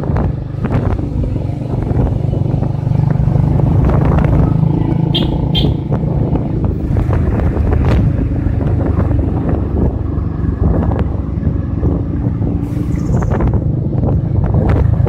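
Motorcycle engine running at a steady cruise while riding, with wind rushing over the microphone. Two short high-pitched chirps come about five seconds in.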